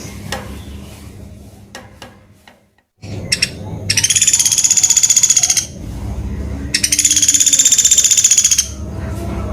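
Woodpecker (pelatuk beras) giving two long, fast rattling calls, each lasting nearly two seconds, with a few sharp clicks before them.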